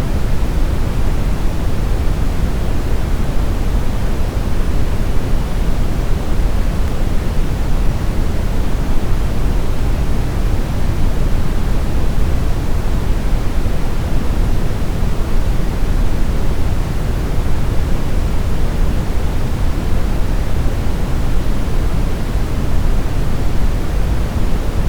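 Steady brown noise: an even, smoothed hiss weighted toward a deep low rumble, with no changes.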